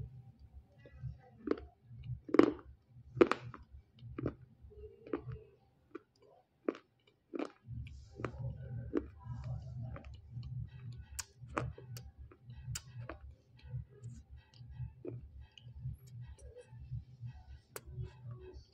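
A person chewing pieces of edible clay with the mouth closed. There are a few sharp crunches in the first four seconds, then softer, scattered mouth clicks as the chewing goes on.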